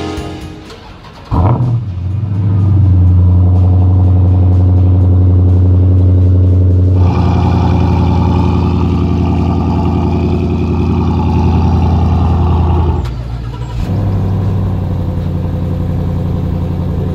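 A V8 muscle car engine starts about a second in and settles into a loud, steady idle. About 7 s in, the sound switches abruptly to another idling V8 with more mid-range in it. Near 13 s it drops off briefly, then a steady idle carries on.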